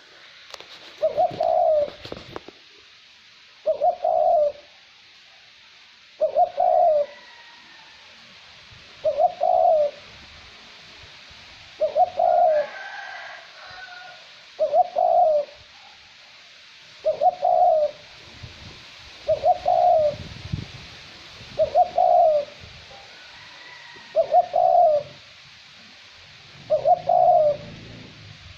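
Male cu moi dove cooing: a short, low coo phrase repeated about every two and a half seconds, eleven times, over a steady soft hiss of light wind. A male's call as used by trappers to lure wild doves to the decoy.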